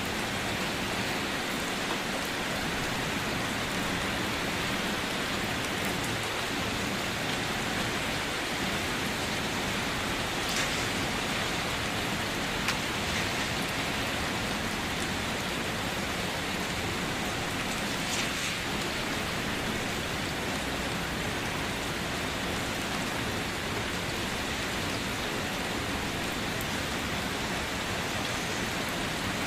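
Steady rain falling, an even hiss with a couple of brief louder spatters.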